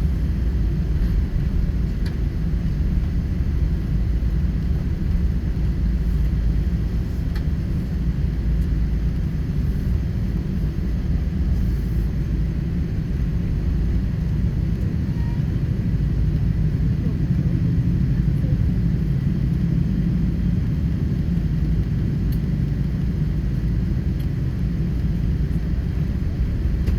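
Steady low rumble in the cabin of a Boeing 777-300 airliner under way, holding an even level throughout.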